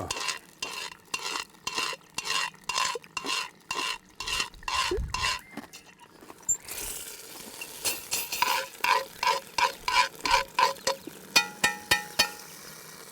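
Someone eating roast pork with crispy crackling from a plate, a run of rhythmic crunching and scraping strokes, about two or three a second. They pause around the middle, start again, and end with a few light metallic clinks of cutlery.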